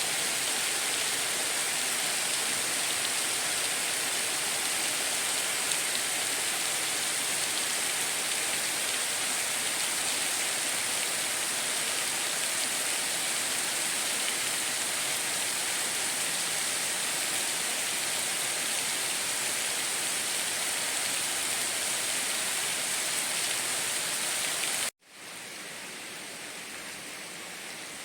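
Steady rain hiss. About three seconds before the end it cuts off abruptly and comes back at once as a quieter, steady rushing-water sound.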